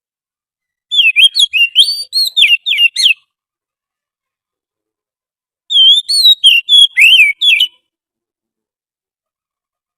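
Oriental magpie-robin song played from a lure-call recording: two phrases of rapid, varied whistled notes, each about two seconds long, a few seconds apart.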